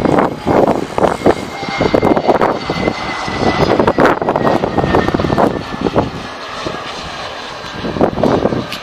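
Jet airliner engines running as a plane passes, with a faint steady whine over a rushing noise, and wind buffeting the microphone in uneven gusts.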